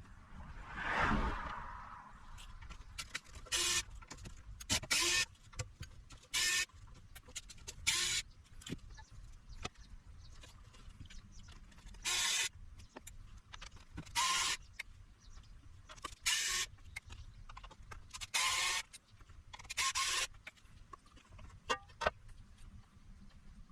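A small handheld electric screwdriver running in short bursts, about ten times, each under half a second, with light clicks in between, as screws are driven out of an inverter's casing.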